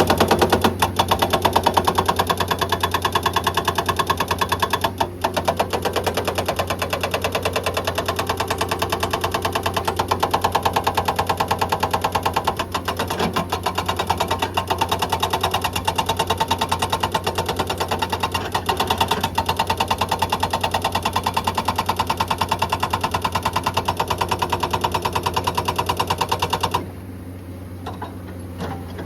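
Hydraulic rock breaker on a Komatsu excavator hammering rock in a rapid, steady stream of blows over the excavator's engine drone. About 27 seconds in the hammering stops, leaving the engine running.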